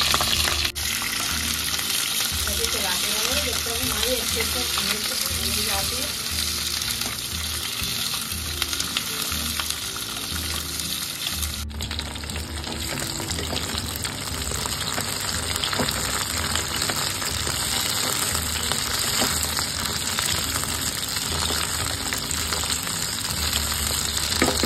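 Slit green chillies sizzling steadily as they fry in hot mustard oil in a stainless steel kadai, with a spatula stirring them near the end.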